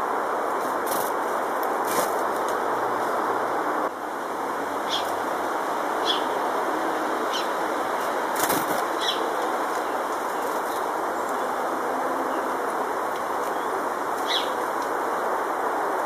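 Small garden birds calling: about half a dozen short, high chirps, with a few brief wing flutters, over a steady background hiss.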